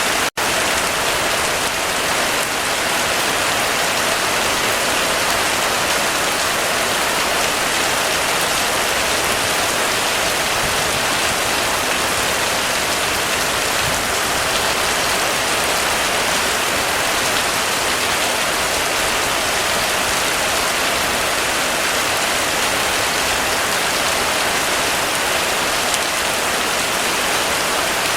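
Heavy rain falling steadily, an even hiss with no thunder. It breaks off for a split second just after the start.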